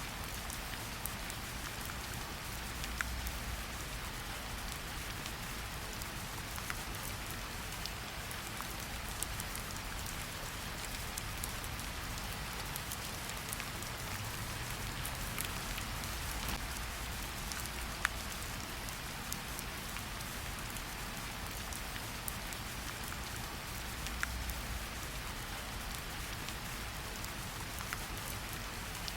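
Steady rain falling in a forest, an even hiss with the distinct taps of individual drops scattered through it.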